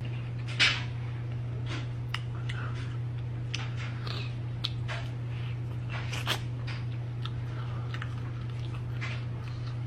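Close-up eating sounds: a person chewing and biting into fried chicken, with wet smacks and sharp mouth clicks at irregular moments over a steady low hum. The loudest click comes about half a second in.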